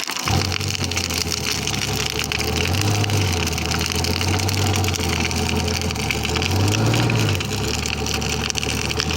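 Bonfire crackling and popping over a low engine hum that starts just after the beginning, rises in pitch twice and runs until the end.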